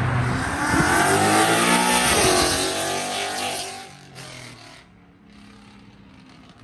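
A car accelerating away with its engine revving. The engine note rises and then falls as the car pulls off, fading out about four to five seconds in.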